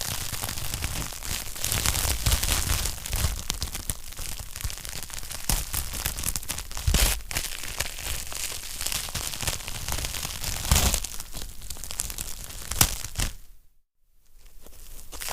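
Wood fire in a fireplace crackling steadily, dense small snaps with a few louder pops. Near the end the crackle drops out for about a second, then comes back.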